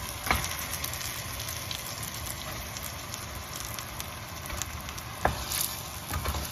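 Chicken and spice paste frying in oil in a pan, sizzling steadily, with two sharp knocks, one just after the start and one near the end.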